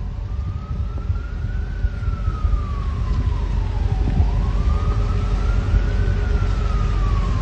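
A siren wailing, its pitch rising and falling slowly twice, over a steady low rumble.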